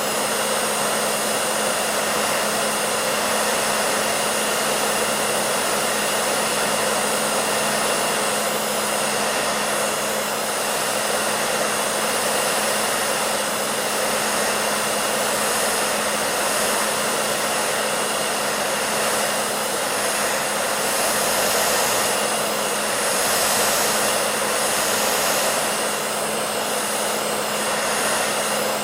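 Electric hair dryer running steadily: an even rushing blow of air with a constant motor hum underneath.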